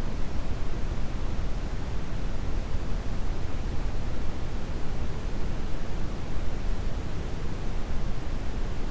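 Steady brown noise: a deep, even rushing hiss with most of its weight in the low end.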